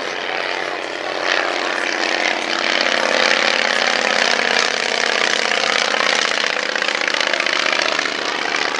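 Piston-engined vintage propeller aircraft flying past, its engine drone swelling about a second in and holding strong, the pitch sagging slightly near the end as it goes by.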